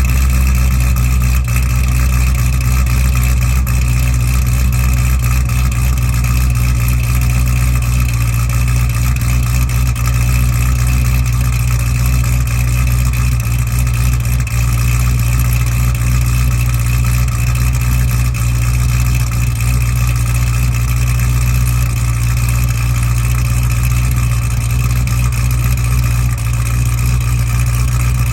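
Supercharged LS9 V8 with aftermarket heads and cam in a C6 Corvette ZR1, idling steadily while still cold after a cold start.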